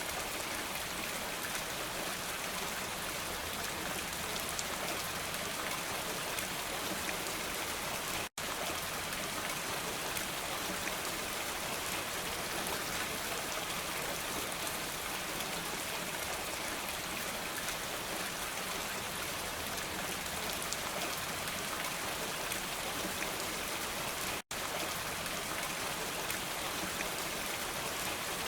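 Steady rain falling, an even hiss of many drops with no thunder. The sound cuts out completely for a split second twice, about 8 and 24 seconds in.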